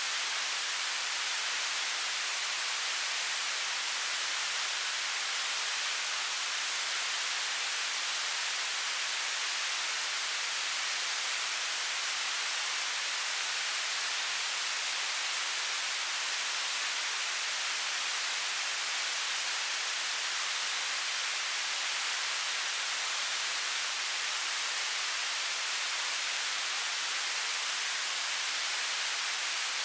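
Television static: a steady, unbroken hiss of white noise, strongest in the high frequencies.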